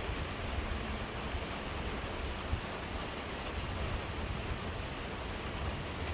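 Heavy rain pouring down in a steady hiss, with wind rumbling on the microphone.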